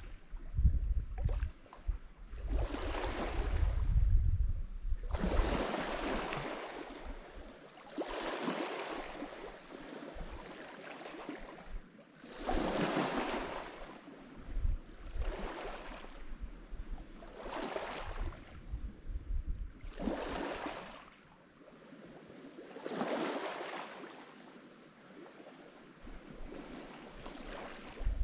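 Lake Michigan waves breaking on the shore, one surge of wash every two to three seconds, each rising and falling away.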